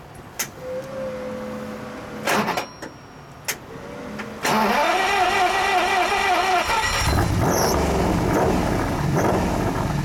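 Lamborghini Countach 25th Anniversary's V12 being started. A few clicks and a faint steady whine come first; about four and a half seconds in the starter cranks with a pulsing sound for about two seconds, then the engine fires and keeps running, heard from behind its quad exhaust pipes.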